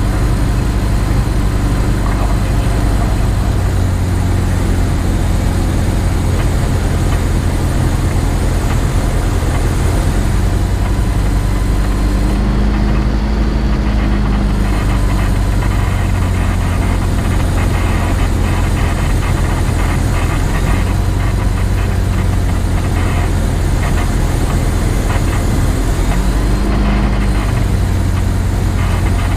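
Europa light aircraft's engine running steadily at low power while taxiing, heard from inside the cockpit, with brief shifts in its note about halfway through and near the end.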